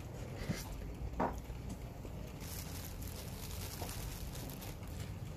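Close-up eating sounds: a person chewing food and licking her fingers, with two short mouth smacks about half a second and a second in, over a steady low background hum.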